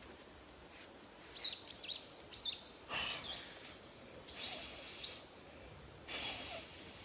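A wild bird singing: quick, looping high chirps in two short phrases, one about a second and a half in and one about four seconds in.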